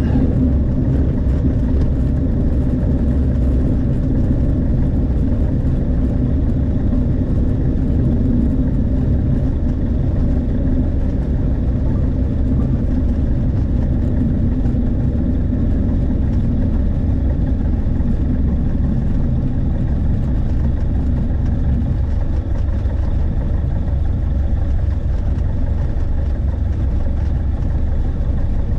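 Light aircraft's piston engine droning steadily. About three quarters of the way through, one tone in the engine note drops away while the drone carries on.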